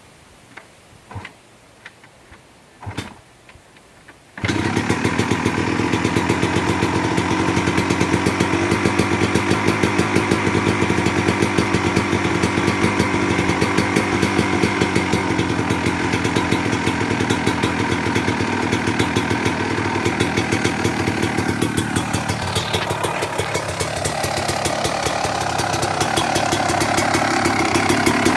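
1996 Yamaha YZ250 dirt bike's single-cylinder two-stroke engine, which comes in suddenly about four seconds in after a few soft knocks and then runs steadily with a fast, even pulse. Its revs dip and climb back up about 22 seconds in.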